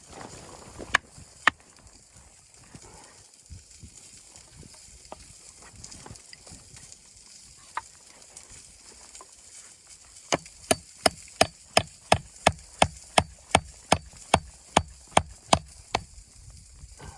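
Sharp knocks of something being struck: two single knocks, then a quick, even run of about sixteen strikes at roughly three a second near the end.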